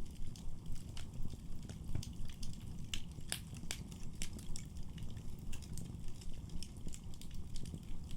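Wood fire burning in a fireplace, with frequent sharp crackles and pops over a steady low rumble of the flames. Several louder pops come about three seconds in.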